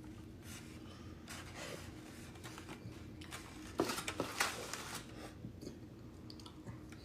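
Faint clicks and crinkly rustles of things being handled, with a brief cluster of louder clicks and crinkles about four seconds in.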